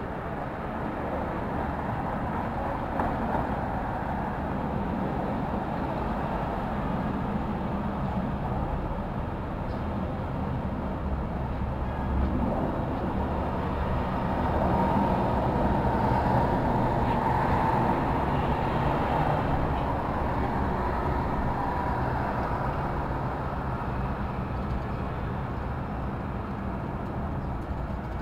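City street traffic: a steady wash of vehicles passing, swelling louder for several seconds about halfway through as a heavier vehicle goes by.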